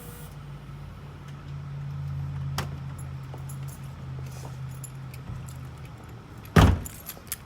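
Nissan 300ZX's VG30 V6 idling through its new exhaust of a cheap muffler and two welded-in resonators, a steady low note. The note dies away about five and a half seconds in, and a short loud clatter follows near the end.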